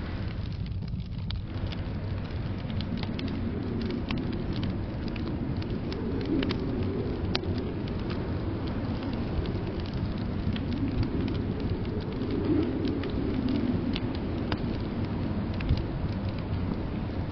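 Wood fire crackling in a fireplace with scattered sharp pops, over the steady low rush of blizzard wind that swells twice.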